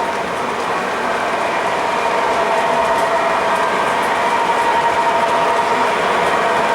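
O scale model trains running on the layout's track, a steady rolling clatter of wheels on rail under a constant whine.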